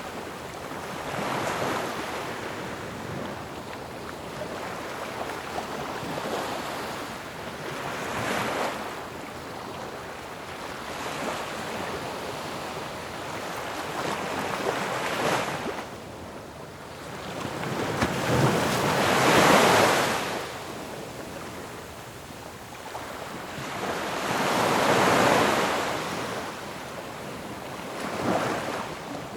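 Ocean waves breaking on a shore, one swell of surf after another every few seconds over a steady wash, the biggest two breaking past the middle.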